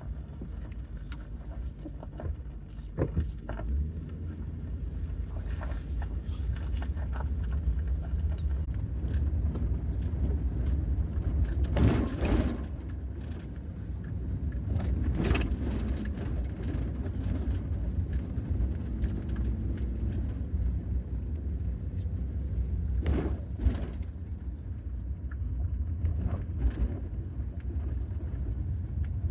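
Ford E250 van driving, a steady low road and engine rumble with scattered knocks and rattles, the loudest about 12, 15 and 23 seconds in.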